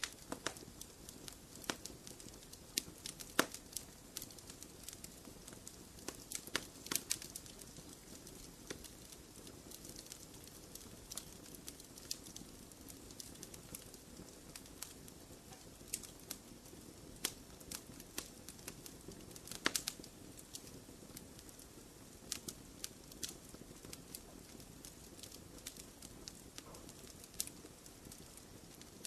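Wood fire crackling in a fireplace: irregular sharp pops and snaps over a steady low hiss, with a couple of louder pops about three seconds in and about twenty seconds in.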